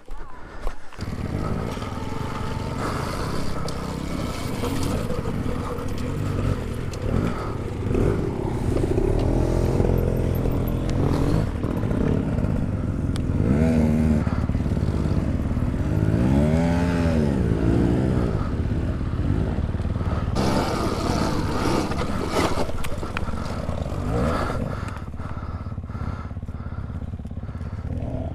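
Dirt bike engine running steadily, revved up and back down a couple of times, around ten seconds in and again past the halfway point.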